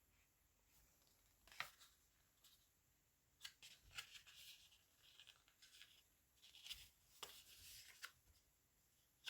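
Faint rustling and crinkling of a paper journal page as fibers and trim are pulled through its punched holes, in short scattered rustles starting about a second and a half in.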